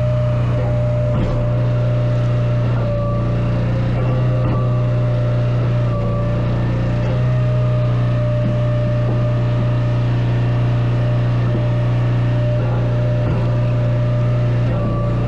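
An engine running steadily at constant speed, with a deep, even hum.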